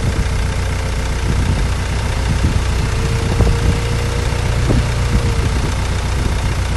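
Ford AODA 2.0-litre four-cylinder petrol engine idling steadily, with a faint steady whine over its hum and a few light clicks.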